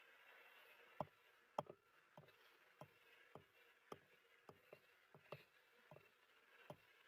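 A series of light taps or knocks, roughly two a second and slightly irregular. The two loudest come about a second and a half second later, over faint room hiss.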